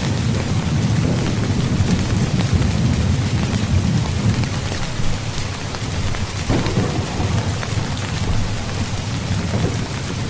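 Steady heavy rain falling on a tent, with a continuous low rumble of thunder underneath.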